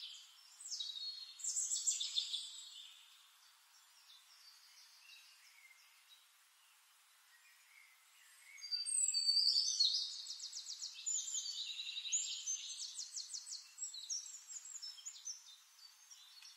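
Small birds chirping and trilling, with quick high notes and fast rattling trills. There is a spell of song in the first few seconds, a lull, then a louder, busier spell from about eight and a half seconds on.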